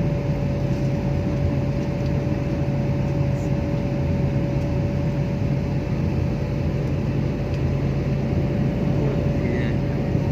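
Steady mechanical drone with a constant hum, unchanging in level.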